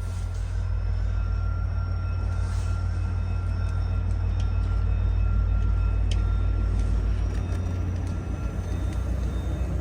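VIA Rail F40PH-2 diesel locomotive pulling a four-car passenger train away from the station under power. It runs with a deep, steady drone and a faint high whine that slowly rises in pitch as it gathers speed, getting louder toward the middle and easing slightly near the end.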